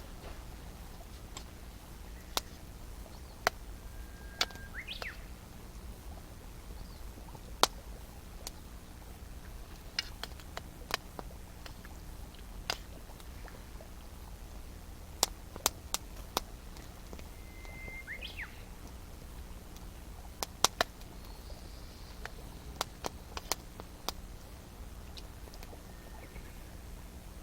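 Wood campfire crackling, with sharp irregular snaps and pops every second or so. A bird gives short whistled calls with quick pitch slides a few times: about five seconds in, around eighteen seconds, and near the end.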